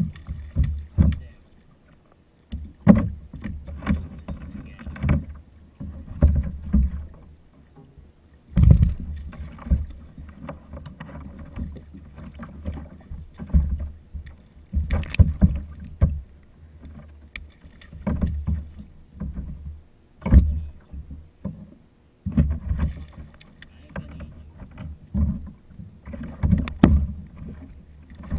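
Irregular knocks and thumps on a plastic kayak hull, with water moving against the boat, coming in clusters with short lulls.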